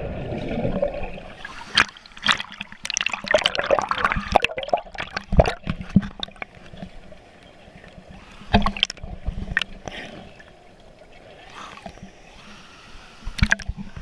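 Water sloshing and splashing as people move about in it, with irregular knocks and splashes, thinning out for a few seconds in the middle.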